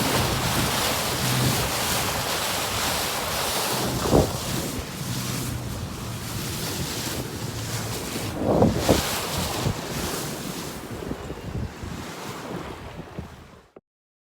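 Strong wind buffeting the microphone at sea, with rushing water and a faint low steady hum underneath, which could be the boat's engine; it cuts off abruptly near the end.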